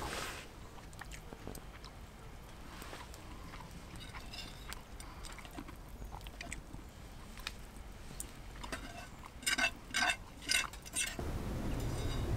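Scattered light clicks and clinks of small metal utensils against a pan, with a quick run of louder ringing clinks about nine and a half seconds in.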